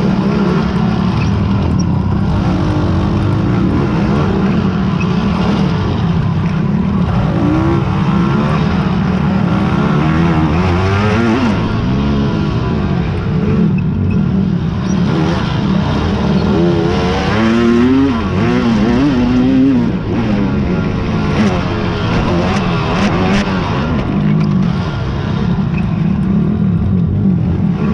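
Big-bore quad (ATV) engines racing, revving up and down continuously, with several engines overlapping at once through the middle of the stretch.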